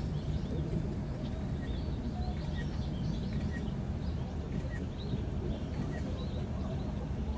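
Small birds chirping over and over, short quick chirps scattered through, over a steady low background rumble of outdoor noise.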